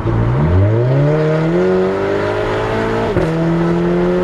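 Straight-piped turbocharged 2.0-litre four-cylinder of a 2010 VW GTI with a 3-inch downpipe, accelerating hard at full throttle. The exhaust note climbs quickly, dips once in a quick upshift about three seconds in, then climbs slowly again.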